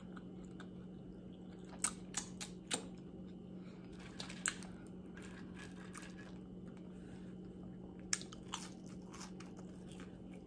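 Close-miked chewing of BBQ rib meat, with a handful of short sharp wet clicks and smacks, a cluster about two seconds in, one around four and a half seconds and two more near eight seconds, over a steady low hum.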